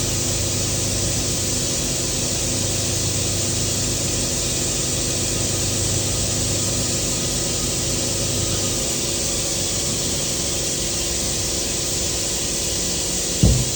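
Welding arc burning with a steady hiss over an electrical hum, the low hum easing about nine seconds in, and a single knock near the end.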